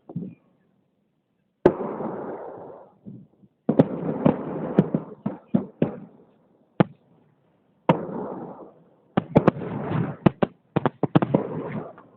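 Fireworks salute: shells bursting in sharp bangs, each followed by a rolling rumble. The bursts come in clusters: one about a second and a half in, a rapid volley from about 4 to 6 seconds, a single bang near 7 seconds, and another dense run of bangs toward the end.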